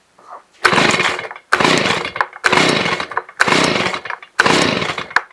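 Stihl BG85 two-stroke leaf blower's recoil starter pulled five times, about once a second, the engine cranking over on each pull without catching and running.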